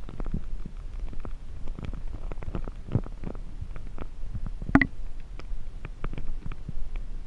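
Muffled underwater noise: a low rumble with irregular clicks and knocks scattered through it. The sharpest click comes a little before five seconds in.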